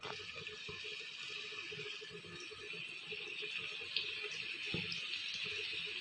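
Chicken seekh kababs on skewers sizzling steadily in a lightly oiled grill pan, just laid down to sear, with a soft knock about five seconds in.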